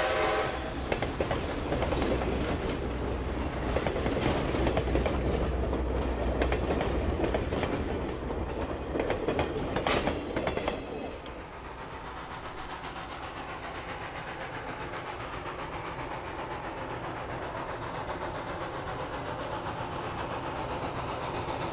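Excursion train passenger cars and caboose rolling past on jointed track, wheels clicking with a few sharp clacks about ten seconds in. The sound drops away suddenly near eleven seconds, then a quieter steady train sound slowly grows louder as the steam train approaches.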